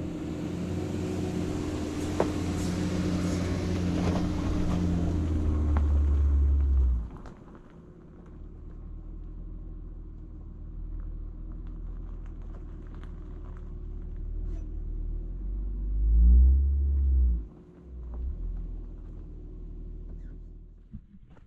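Van engine running while pulling into a parking spot, working harder for the first seven seconds and then settling lower. It gives a brief rev, rising and falling, about two-thirds through, and is switched off just before the end.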